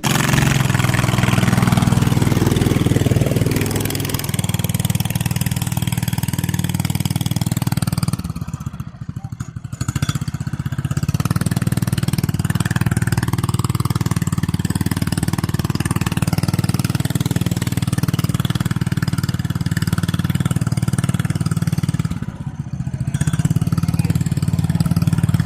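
An engine running steadily, dropping away briefly twice, about nine seconds in and again near the end.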